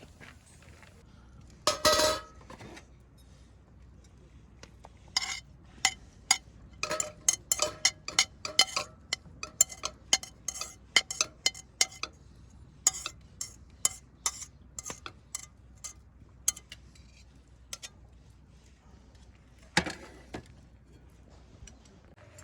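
Cookware and utensils clinking and clattering: one loud clatter about two seconds in, then a long run of sharp, separate clinks, and one more near the end.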